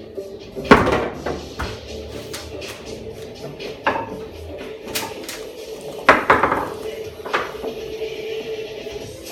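Foosball being played: sharp clacks of the ball struck by the players' figures and banging off the table walls, with smaller clicks of rods and handles between them. The two loudest hits come about a second in and about six seconds in.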